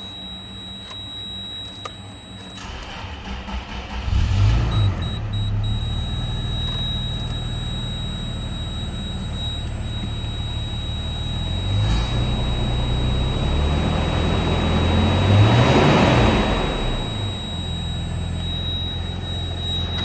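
2004 Toyota 4Runner's 4.0-litre V6 starting up about four seconds in, then running and being revved up and back down a few times, the highest rev about three-quarters of the way through.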